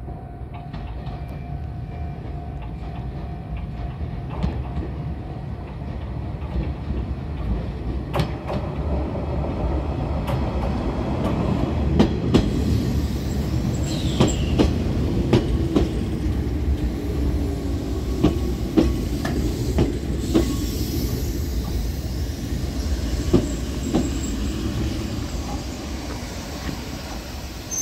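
An Izuhakone Railway Sunzu Line electric commuter train pulls into the platform and slows to a stop. Its rumble builds as it comes past, with the wheels clicking over the rail joints. There is a brief squeal about halfway through and a whine that falls in pitch as it brakes.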